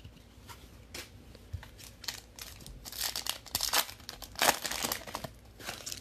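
Plastic trading-card pack wrapper crinkling and being torn open, with a few light crackles at first and then a dense run of crinkling and tearing in the middle, loudest about four and a half seconds in.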